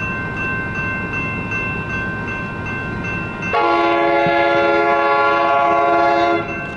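Diesel locomotive horn sounding one long blast of about three seconds, starting about halfway in, over a steady high ringing tone.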